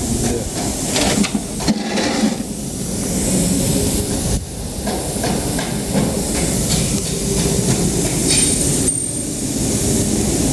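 Honda StepWagon Type S i-VTEC four-cylinder engine running steadily.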